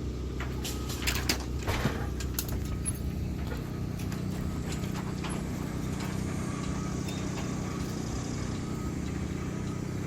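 A steady low engine hum, with a few sharp clicks between about one and two and a half seconds in.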